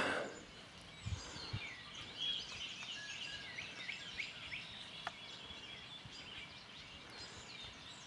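Birds singing in the background: many short, high chirps and whistled notes overlapping, with two soft low bumps about a second in.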